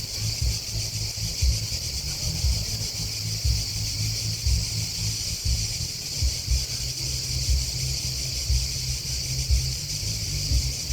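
A dense, steady chorus of singing grasshoppers and crickets: a continuous high-pitched shrill with no breaks. Under it runs a low, uneven rumble with frequent soft bumps.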